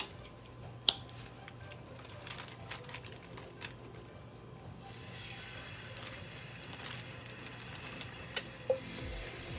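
Chicken wings going into hot cooking oil in a frying pan: a few clicks and a sharp knock at first, then about five seconds in a steady sizzle of frying starts and carries on.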